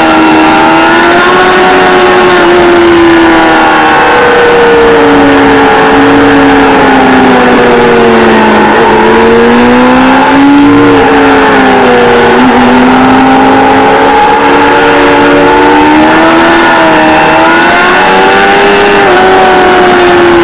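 Kawasaki ZXR400 inline-four sportbike engine at high revs on track. Its pitch sinks slowly for several seconds, then climbs again with a few brief dips, as for gear changes.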